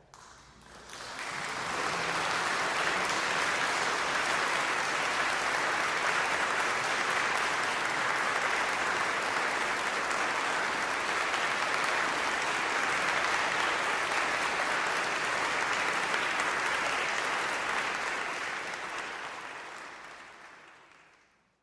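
Concert audience applauding: the clapping swells up over the first second or two, holds steady, then fades out near the end.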